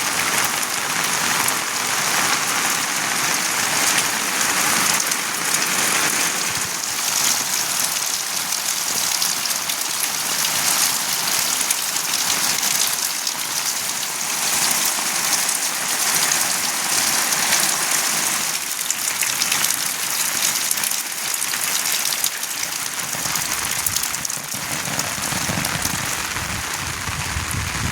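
Steady monsoon rain falling, a dense even hiss of drops striking surfaces.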